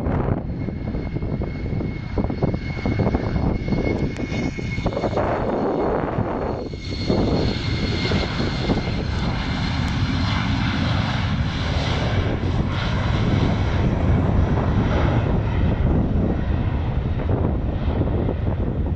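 Embraer E190 jet airliner departing, its twin GE CF34 turbofans running at takeoff power: a heavy rumble with a steady high fan whine over it.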